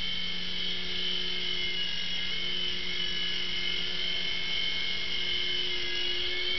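Small toy RC helicopter in flight, its electric motors and rotor blades giving a steady high-pitched whine with a lower hum beneath it.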